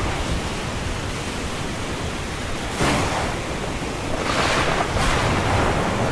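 Ocean waves washing onto a shore: a steady wash of surf with a low rumble beneath it, one wave surging in suddenly about three seconds in and another swelling up a second later.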